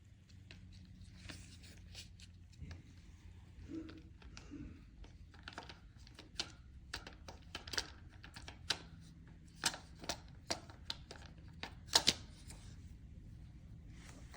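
Handling noise: irregular sharp clicks and taps, the loudest a double tap about twelve seconds in, over a faint steady low hum.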